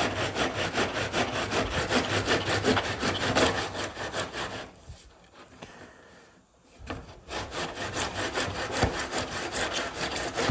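Hand saw cutting through the wooden door edge in quick, even back-and-forth strokes, finishing a cut the track saw could not reach. The sawing stops for about two seconds midway, then starts again.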